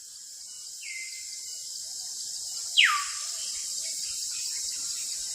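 A steady high-pitched insect-like chorus with two whistled calls gliding downward over it: a short one about a second in, and a louder, longer sweep near the three-second mark.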